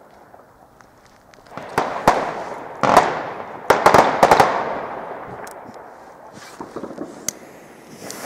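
Firecrackers going off: a series of sharp bangs with echoing tails, starting about a second and a half in and bunching loudest around three to four seconds, then dying away to a few small cracks.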